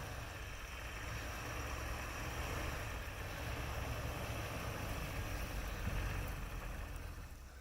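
Jeep engine running at low speed with a steady low rumble, an even hiss over it. Both drop off in level near the end.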